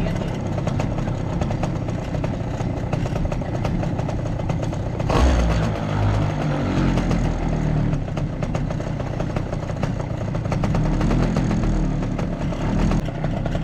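Small petrol engine running steadily, with a loud knock about five seconds in, after which its pitch rises and falls as the throttle changes.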